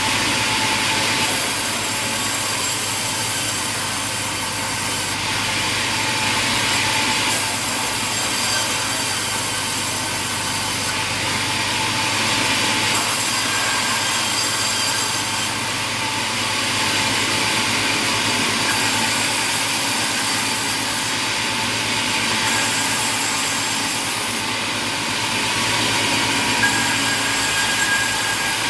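Sawmill machinery running with a saw cutting through wood: a continuous, loud mechanical noise with a steady hum. Its tone shifts every few seconds.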